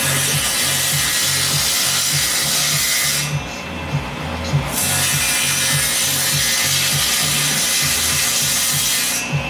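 A power tool grinding steel: a loud, steady abrasive hiss that drops away about three seconds in and starts again just over a second later.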